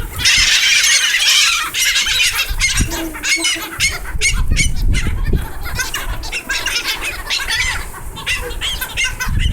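A flock of seagulls squawking over one another in a dense, continuous chorus of short calls, busiest in the first couple of seconds, as they crowd in for thrown food.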